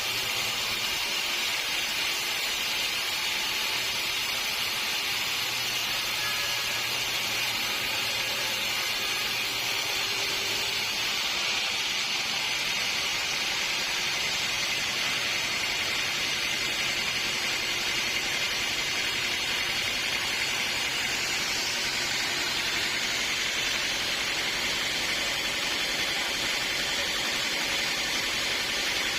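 Sawmill blade cutting through a redwood log: a steady, unbroken hiss at an even level.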